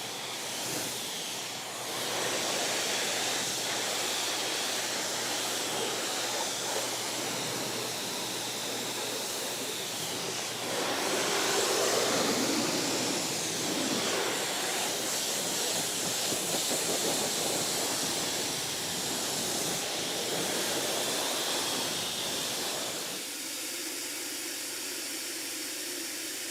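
Water spraying from a pressure washer onto a car: a steady hiss that swells and shifts as the spray moves over the bodywork, changing tone near the end.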